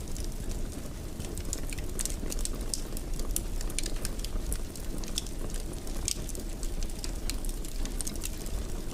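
Wood fire crackling in a fireplace: frequent irregular pops and snaps over a steady low rumble of burning.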